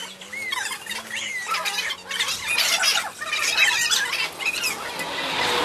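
Birds chirping and squawking, many short rising and falling calls, with a swelling rush of noise near the end.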